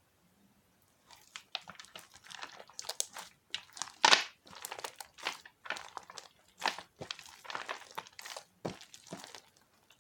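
Slime being squished, pressed and stretched by hand, giving irregular crackling, crunching and popping sounds. The sounds start about a second in.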